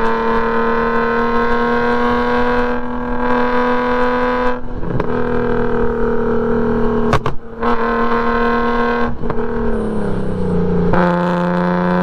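Straight-piped BMW E46 M3's S54 inline-six running hard on track, its pitch climbing steadily under load. The sound is broken by brief throttle lifts. Near the end the pitch drops and then starts climbing again.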